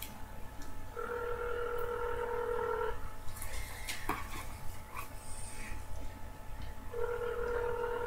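Telephone ringback tone heard through a phone's speakerphone: the outgoing call ringing on the other end, not yet answered. Two steady rings, each about two seconds long, about four seconds apart, with a few faint handling clicks between.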